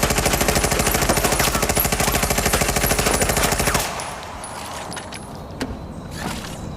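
Automatic gunfire: one continuous, very fast burst of shots lasting about four seconds that stops abruptly, followed by a few faint scattered clicks.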